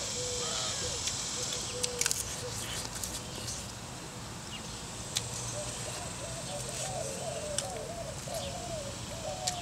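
Birds calling in the background, with a run of wavering notes through the second half. A few sharp crunches come from chewing grilled quail.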